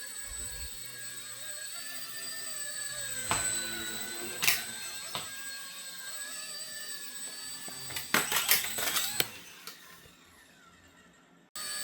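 Small electric motor whining steadily, its pitch wavering slightly, with several sharp clicks and a quick cluster of knocks about eight to nine seconds in. It fades near the end, then cuts off abruptly.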